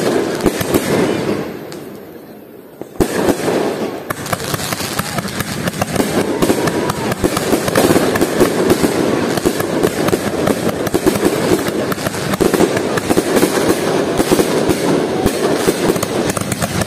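Fireworks going off in a dense, rapid string of cracks and bangs, the sound of many shots from fireworks cakes. It eases briefly near the start, then starts again sharply about three seconds in and keeps up.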